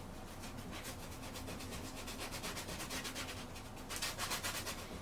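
Bristle brush scrubbing oil paint onto canvas in quick, repeated back-and-forth strokes, a rapid scratchy rubbing that grows louder near the end.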